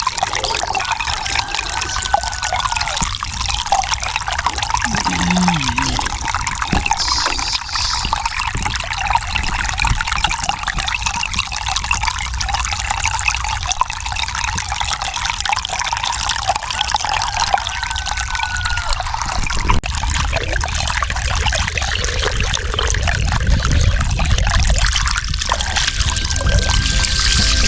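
Water rushing steadily out of a water pipe broken by the plow: a leaking, burst supply line.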